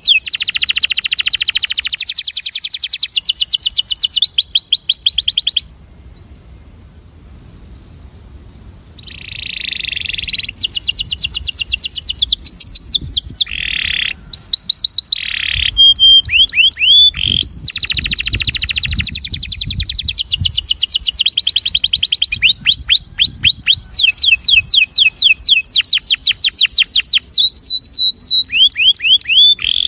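Male canary singing in rapid trills of repeated high, quickly rising notes, run after run, the attraction song of a breeding male. The song stops for a few seconds after about five seconds, then resumes.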